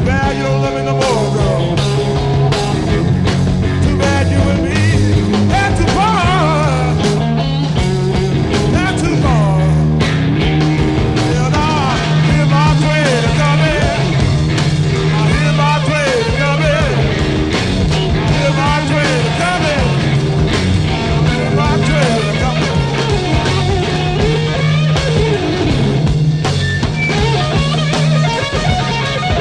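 Blues-rock instrumental break: an electric guitar plays a solo full of bent, sliding notes over a steady bass and drums.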